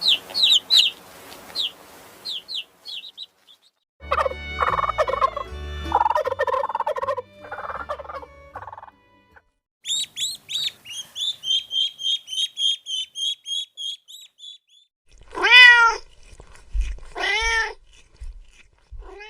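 A series of different animal calls, one after another: quick high chirps at first, then a lower call, then a fast run of high chirps, and near the end two loud arched calls that rise and fall in pitch.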